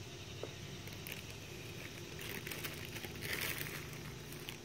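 Quiet rustling and crinkling of hands handling a hair clip or bow in a rabbit's fur. Soft rustles come about a second in and again twice later, over a faint steady hum.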